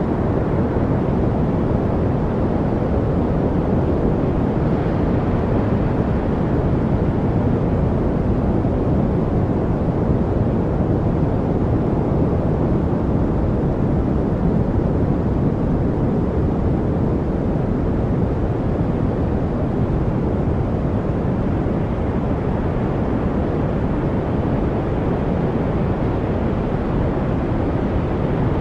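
Steady, deep rushing noise that never changes, with most of its weight in the lows and little hiss on top: a continuous white-noise-style masking track.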